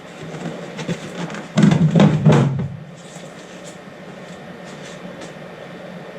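Knocks and clatter of the top cover being handled and fitted onto a 3D printer: a few light clicks, then a louder run of knocks about two seconds in. A steady low hum runs underneath.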